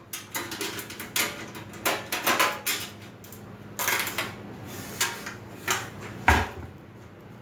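Metal grill parts clanking and knocking as they are handled and fitted together, about a dozen irregular clicks and clanks, with a heavier thump about six seconds in.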